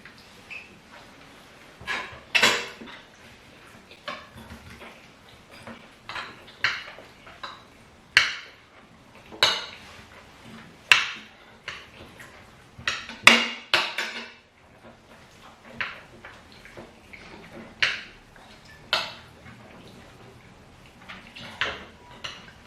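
Spoons clinking and scraping against plates during a meal, in sharp separate strokes every second or two.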